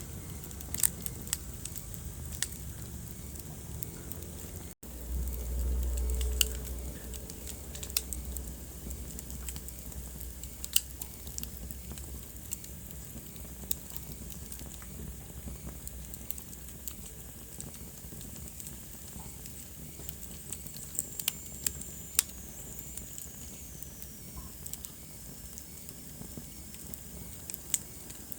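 Wood fire in a fireplace crackling, with scattered sharp pops over a steady low hiss. The sound cuts out for an instant about five seconds in, then a low rumble rises for a couple of seconds.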